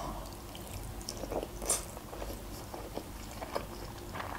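Close-up chewing of a mouthful of Azerbaijani khinkal, soft boiled dough pieces with minced meat. Scattered small wet mouth clicks, the sharpest about one and a half seconds in.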